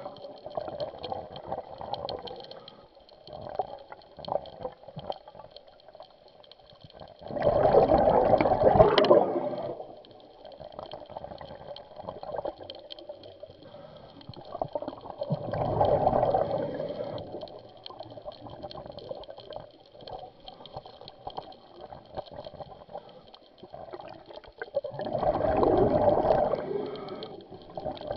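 A scuba diver breathing underwater through a regulator, heard as three bubbling exhalations of about two seconds each, roughly eight to nine seconds apart, with quieter crackling between them.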